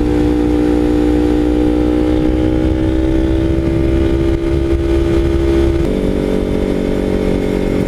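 2013 Kawasaki Ninja 300's parallel-twin engine with an MGP Growler slip-on exhaust, running under throttle with its note slowly rising. About six seconds in it shifts up and drops abruptly to a lower note. Steady low wind rush on the helmet microphone lies underneath.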